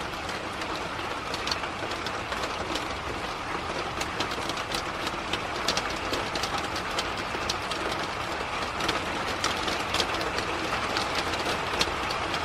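Moderate to heavy rain falling steadily, with many sharp drop ticks on nearby surfaces.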